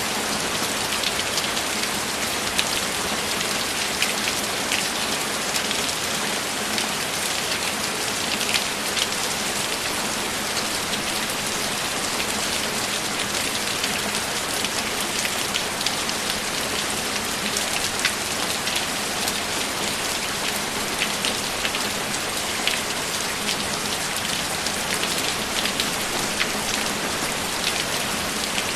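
Steady rain falling, an even hiss with many separate drops ticking sharply on a hard surface close by.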